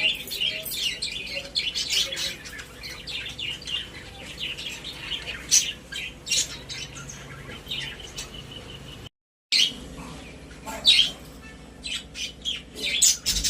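Budgerigars chirping and chattering in quick, sharp calls, cut by a brief silent gap about nine seconds in.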